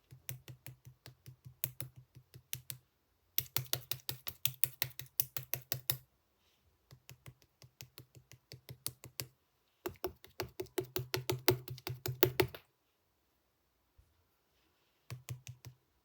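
Slime being squeezed and pressed by hand, making rapid crisp clicking pops about eight to ten a second. The pops come in runs of a few seconds with short pauses between, and one last short run comes near the end.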